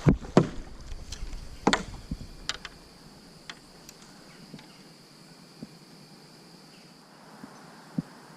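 Insects trilling steadily in a high, thin tone, with a cluster of sharp knocks and clatters in the first couple of seconds, a few faint clicks after, and one more sharp knock near the end.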